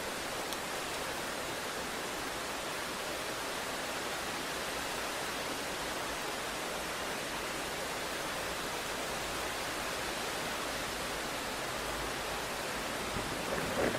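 Steady hiss of heavy rain. A low rumble of thunder begins near the end.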